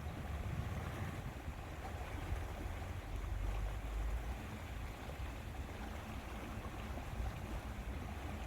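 Lakeside ambience: a steady low rumble of wind buffeting the microphone over a faint wash of water.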